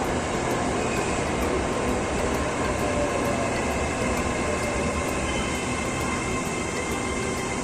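Electric passenger train running: a steady rail rumble and rush of noise, with a faint steady whine that grows clearer about halfway through.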